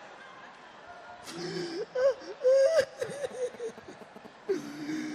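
A person's voice in short high-pitched sounds, starting about a second in after a quiet moment and coming back near the end.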